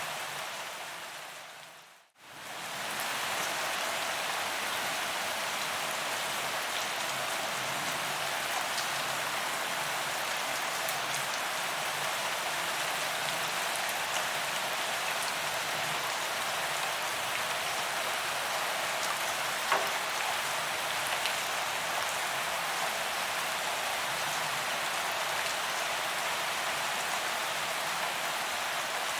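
Steady rain falling on a paved promenade, an even hiss of drops on the ground. About two seconds in it fades out to silence and swells straight back up.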